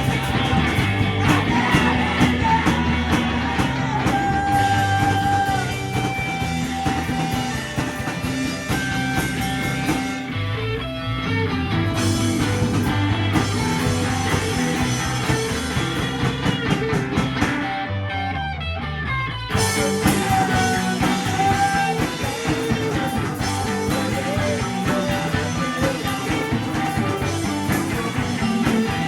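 Rock band playing live with guitars and drums. The cymbals drop out for a moment about ten seconds in and again past the middle, then the full band comes back in.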